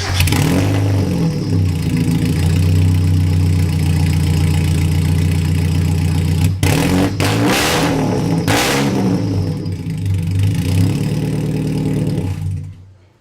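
NA Mazda Miata four-cylinder engine started up and run loud on an open exhaust pipe straight from the header, with no muffler or resonator. It idles, is revved a few times in the middle, and shuts off near the end.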